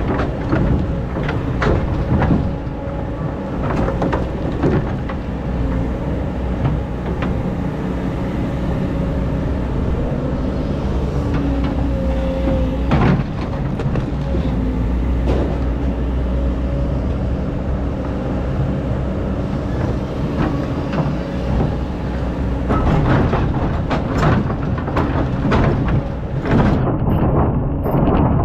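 Excavator's diesel engine running steadily under load, with repeated knocks and clatter from the bucket working through hard-packed sand.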